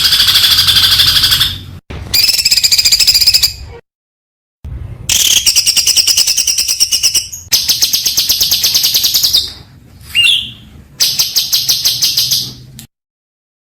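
Recorded songbird song in rapid-fire phrases of fast repeated high notes, several short clips cut together with abrupt silent gaps between them. About ten seconds in there is a single swooping whistle, and the song stops near the end.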